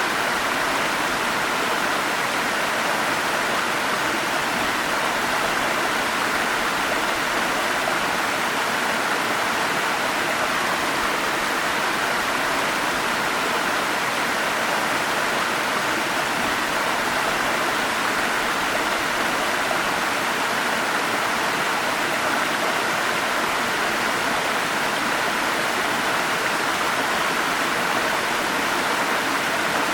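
Forest stream flowing: a steady, even rush of water with no change throughout.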